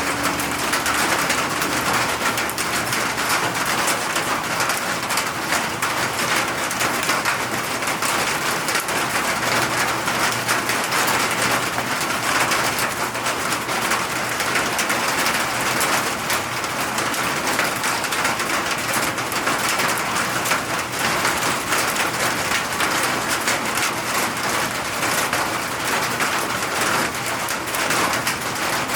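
Steady rain falling, a dense even hiss of countless drops pattering on surfaces.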